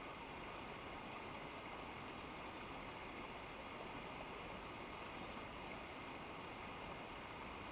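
Steady rushing of a mountain river's water, an even noise with no breaks or distinct events.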